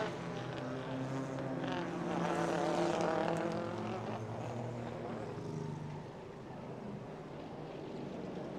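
Race car engines running as cars pass on the circuit: a steady engine drone with slight shifts in pitch that fades about six seconds in.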